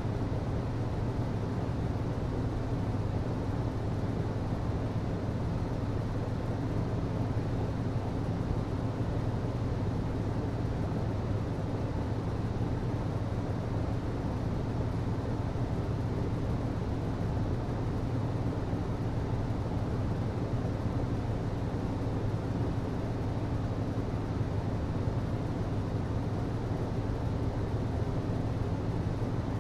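HVAC system running steadily: a constant low hum under an even, unbroken noise, with no change in level.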